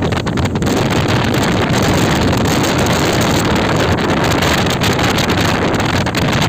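Speedboat under way: its motor running steadily under a heavy rush of wind buffeting the microphone.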